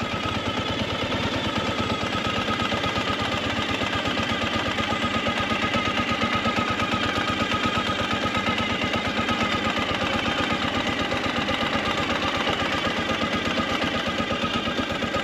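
Motorcycle engine running steadily at low speed, its firing a fast, even putter.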